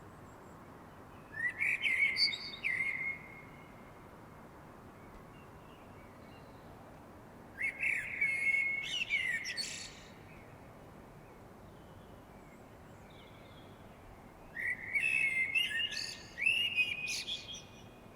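A songbird singing in three separate phrases a few seconds apart, each a couple of seconds of quick, warbling notes.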